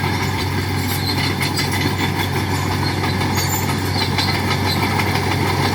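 Heavy earthmoving machine's diesel engine running steadily, with faint light metallic ticks over it.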